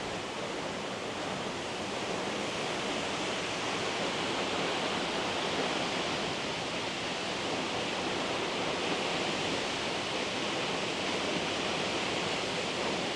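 Steady rushing of a river and waterfall, an even wash of water noise with no change.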